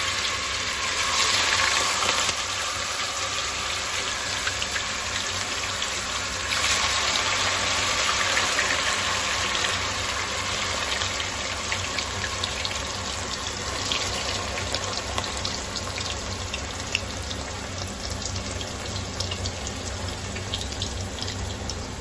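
Cubes of tofu deep-frying in hot oil: a steady sizzle with crackles and pops that come more often in the second half.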